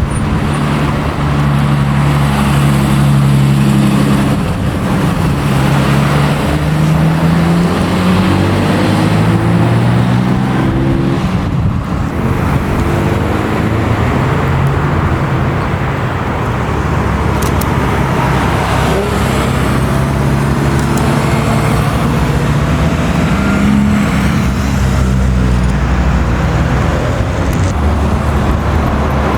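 Classic car engines running and revving, the engine note climbing in pitch several times as the cars accelerate.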